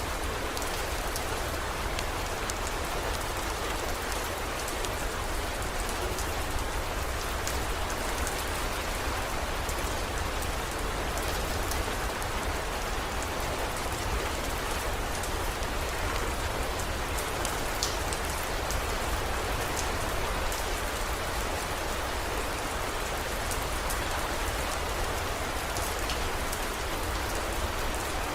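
Steady heavy rain: an even hiss with scattered sharp drop ticks and a low rumble underneath.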